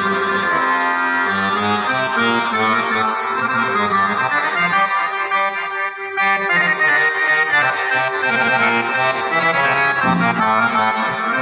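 Accordion playing an Arabic taqasim improvisation, a melody over sustained chords, with a brief pause between phrases about six seconds in.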